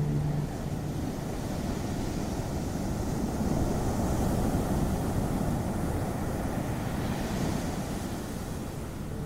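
Ocean surf: a steady wash of waves, swelling twice, about four and seven seconds in.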